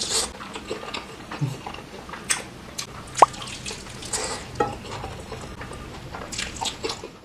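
Close-miked wet eating sounds from a person eating: a run of irregular short mouth clicks and smacks, with one sharper, louder click a little after three seconds in.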